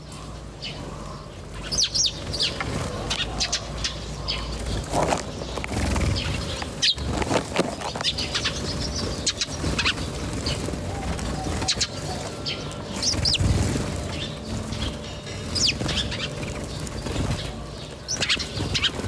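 Birds chirping in short, high calls scattered through, over a low rumble with a few dull thuds.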